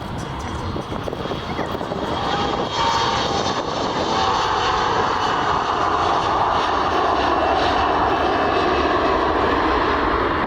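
Airliner's engines passing close by, the noise growing louder over the first few seconds and then holding steady.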